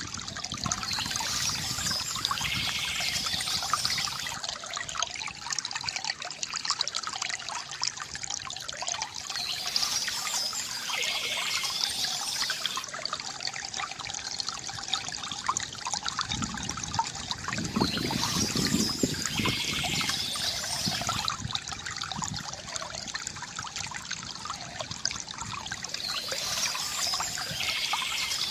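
Water trickling and gurgling from a bamboo fountain, running continuously, with a brighter, hissier stretch coming back about every eight or nine seconds.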